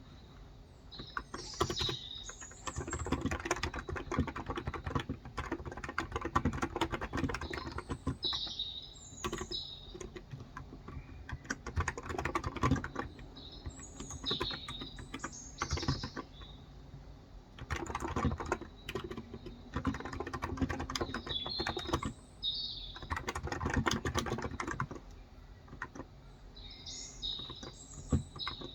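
Typing on a Cox Endeavour electro-capacitive tenkeyless keyboard with 35 g switches, in runs of a few seconds broken by short pauses. Birds chirp in short high calls several times over the typing.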